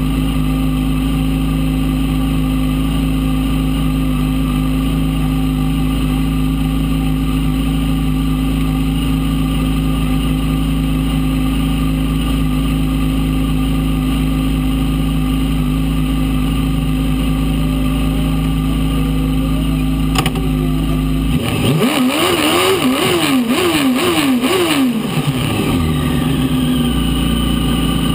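Fiat 600 prototype race car's engine idling steadily, heard from inside the cockpit. About twenty seconds in, the throttle is blipped about five times in quick succession, the revs rising and falling each time, and then the engine settles back to idle.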